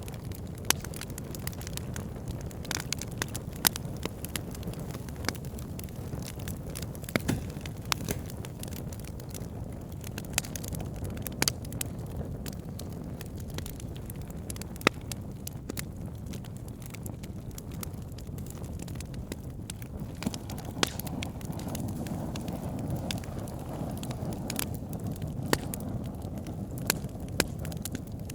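Burning wood logs: a steady low rush of flame with frequent irregular sharp crackles and pops, the flame noise growing a little louder in the second half.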